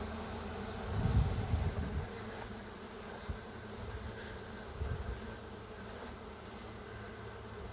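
A honey bee swarm in flight: the steady hum of thousands of bees pouring out of the hive and into the air. Brief low rumbles come about a second in and again around five seconds.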